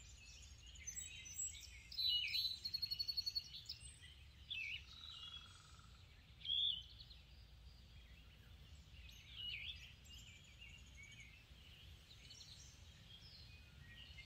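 Faint songbird calls and chirps, including a quick run of repeated notes about three seconds in, over a faint steady low rumble.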